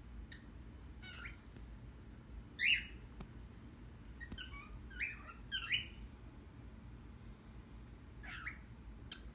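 A bird giving short chirps and squawks, about seven separate calls spaced irregularly, the loudest a little under three seconds in and a quick cluster of three around five to six seconds.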